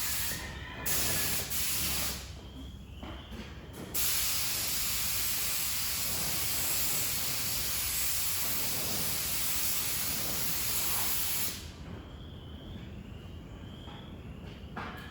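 Compressed-air paint spray gun hissing as the trigger is pulled: two short bursts in the first couple of seconds, then one steady pass of about seven seconds that cuts off sharply, laying a light low-pressure cover coat. Faint insect chirping is left once the spraying stops.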